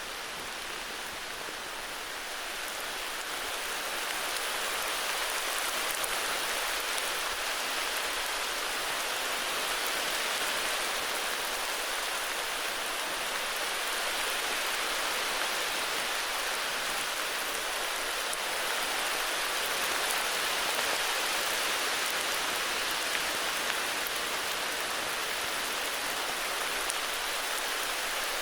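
Heavy rain falling steadily in a forest, a dense even hiss of drops on leaves and ground that swells slightly a few seconds in.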